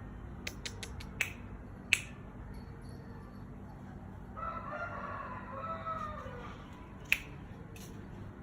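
A rooster crowing faintly in the background, one call lasting about two seconds in the middle. A few sharp clicks come in the first two seconds, and one more near the end.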